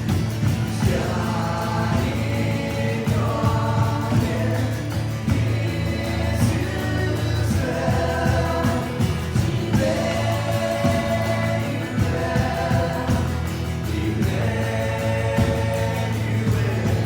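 Church worship music: several voices singing long held phrases over a steady, sustained low keyboard and bass.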